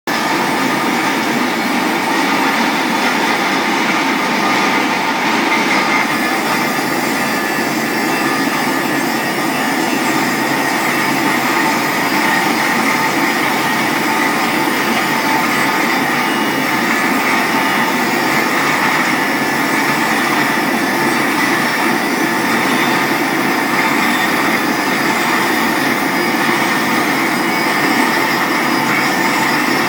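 RT 50-110 pipe rust-cleaning machine running steadily as it cleans a screw pile or pipe, a loud continuous mechanical noise.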